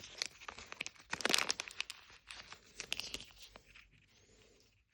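A small plastic wrapper being torn open and crinkled by hand: a dense crackle with sharp snaps, loudest about a second in, dying away near the end.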